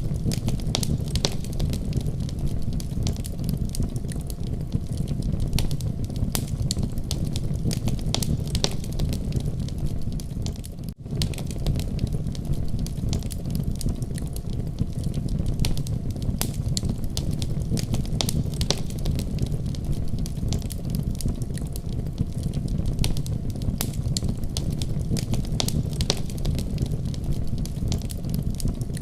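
Wood fire crackling in a fireplace: a steady low rumble of flames with frequent small pops and snaps. The sound drops out for an instant about eleven seconds in.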